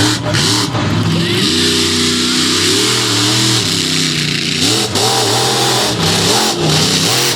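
Monster truck engine revving hard, its pitch rising, wavering and falling as the throttle is worked.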